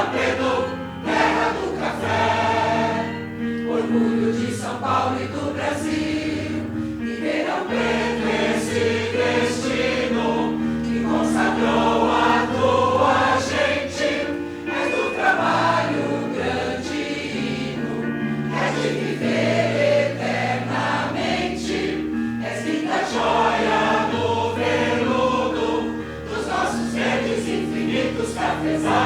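A choir singing a song in parts over electronic keyboard accompaniment, with long held low keyboard notes changing under the voices.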